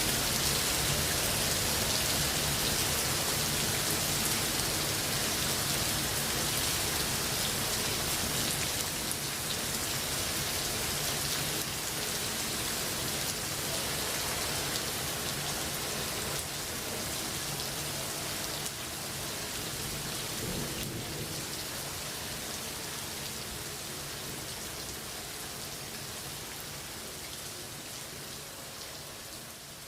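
Steady heavy rain with thunder rumbling low underneath, the whole sound gradually getting quieter.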